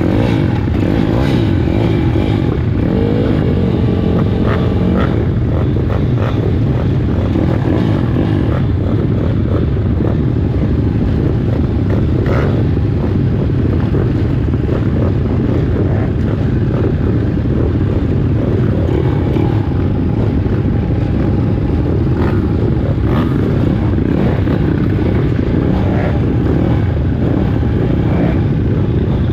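Many pit bike engines running together on the start line, a loud steady drone of small single-cylinder engines idling and blipping.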